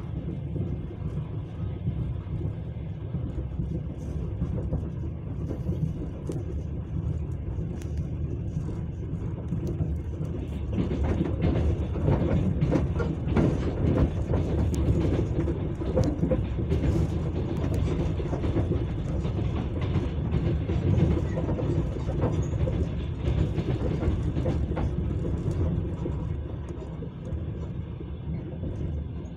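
Passenger train running on the rails, a steady low rumble of the wheels. About ten seconds in it grows louder, with a rapid run of clicks and knocks from the wheels over rail joints, and it eases off near the end.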